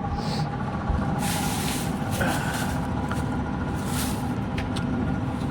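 A steady mechanical drone with a constant hum of several fixed tones. Two short hissing rushes come over it, about a second in and again near four seconds.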